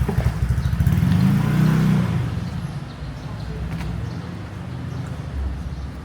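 A motor vehicle engine passing close by on the street, swelling to its loudest about one to two seconds in and then fading into the steady street noise.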